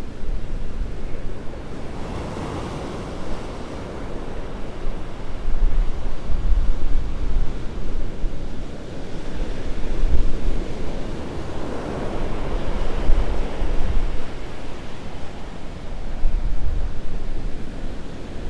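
Storm-driven surf breaking and washing up the beach, swelling louder twice as waves come in, about two seconds in and again around twelve seconds. Strong gusty wind buffets the microphone throughout with a low rumble.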